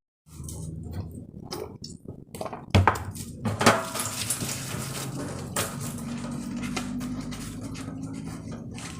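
Dishes and containers being handled, clinking and knocking irregularly, with two louder knocks about three and four seconds in, over a low steady hum.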